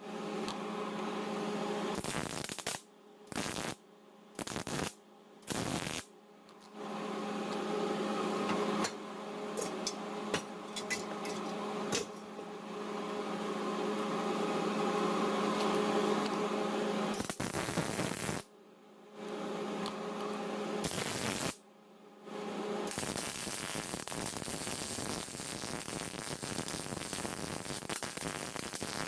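MIG welder stitch-welding the thin sheet metal of a cracked Kubota F3060 muffler: several short arcs of under a second, then one long run of about ten seconds and a few more short ones, each a crackling hiss over a steady hum that cuts off sharply between welds. Near the end a steadier even hiss carries on without the hum.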